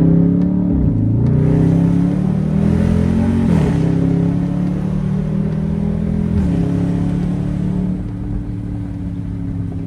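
Jeep Grand Cherokee Trackhawk's 6.2-litre V8 engine, running without its supercharger, pulling away with revs climbing. The pitch drops suddenly about three and a half seconds in and again about six and a half seconds in, as it shifts up.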